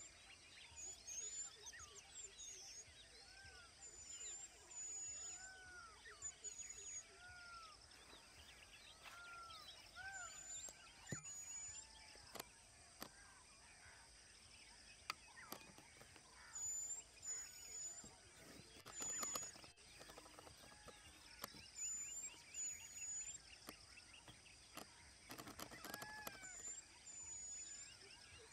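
Faint chorus of several wild birds calling: short rising-and-falling whistles and high thin chirps repeating throughout, with a couple of quick runs of rapid notes, over a steady outdoor hiss.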